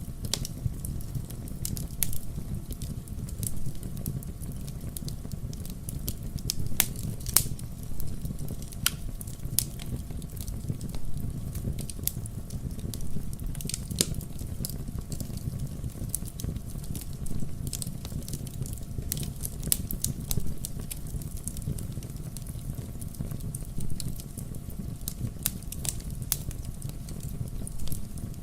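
Burning firewood crackling: a steady low rush of flame with frequent, irregular sharp pops and snaps from the logs.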